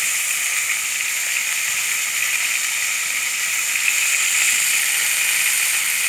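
Flour-battered fermented sour pork (som moo) sizzling steadily as it fries in oil in a pan.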